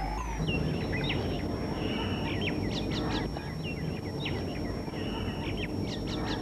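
Birds chirping and calling in quick, sliding notes, some in short clusters, over a steady low outdoor background hiss.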